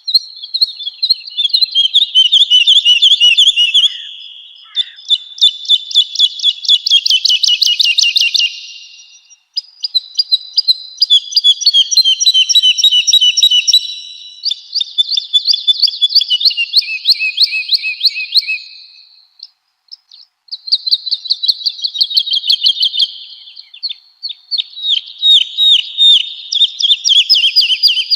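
Woodlark singing: a string of phrases of rapid, repeated high notes, each phrase a few seconds long with short pauses between, several stepping down in pitch.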